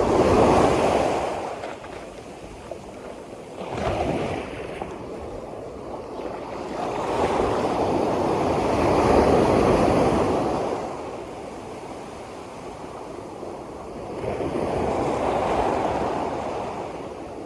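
Sea waves breaking and washing in, surging four times: right at the start, briefly about four seconds in, a longer surge from about seven to eleven seconds, and again near the end.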